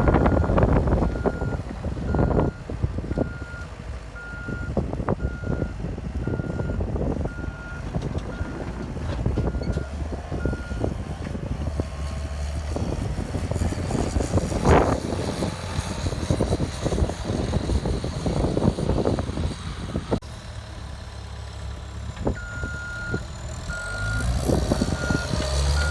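Caterpillar 259B skid steer's diesel engine running, with its backup alarm beeping about once a second while the machine reverses; the beeping stops about eleven seconds in and starts again near the end. Knocks and clanks of the machine moving sound throughout, the loudest about halfway through.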